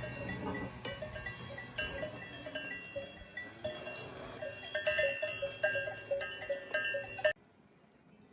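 Several cowbells on cows clanking irregularly at a range of pitches. The sound cuts off suddenly near the end.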